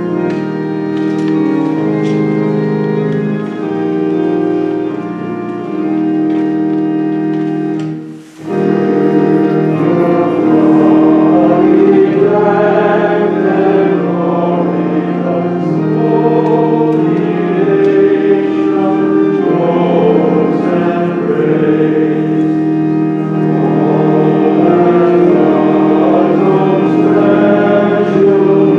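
Organ playing sustained chords. About eight seconds in, after a brief drop-out, a choir joins in singing a hymn with the organ.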